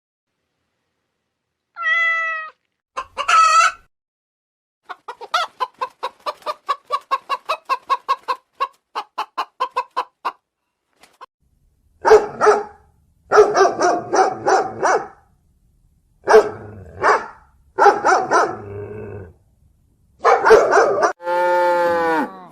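A cat meows, then a chicken clucks in a quick run of about four clucks a second. Several loud rooster crows follow.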